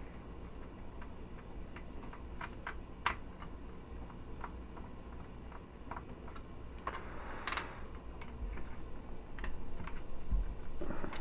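Irregular light clicks and ticks of a small screwdriver working screws in a plastic toy robot figure, with the plastic parts being handled; a few clicks stand out louder, about three seconds in and again past the middle.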